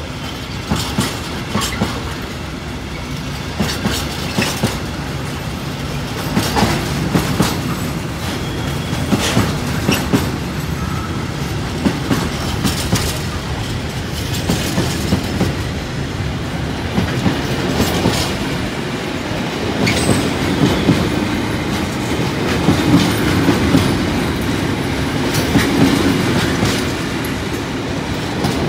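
Intermodal freight train's container and tank-container wagons rolling past close by, their wheels clattering over the rail joints in a steady run of repeated clicks and thumps.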